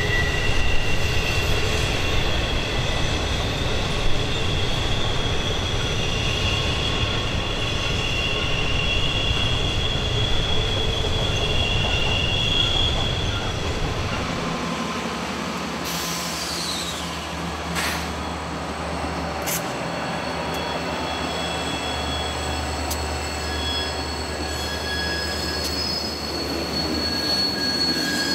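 Freight trains rolling past on the tight Horseshoe Curve, their steel wheel flanges squealing against the rail in several steady high tones over a heavy low rumble. About halfway through, the rumble drops away while the wheel squeal goes on from a second freight train.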